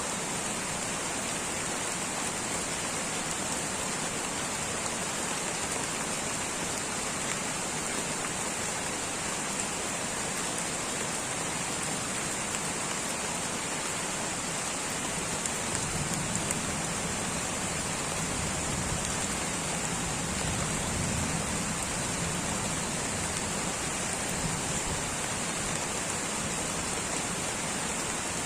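Light, steady rain falling in tropical rainforest, a continuous patter of drops with no pauses.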